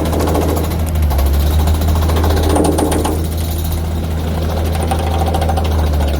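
Jackhammer-style chipping hammer rattling in rapid, continuous blows against hardened concrete in a ready-mix truck drum, over the steady drone of an engine.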